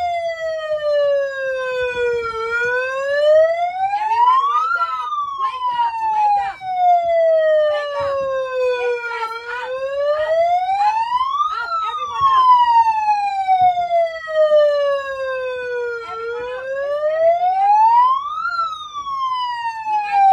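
A siren wailing in slow cycles: each cycle rises in pitch for a couple of seconds, then falls more slowly, about three times over. Short knocks and clatter sound underneath.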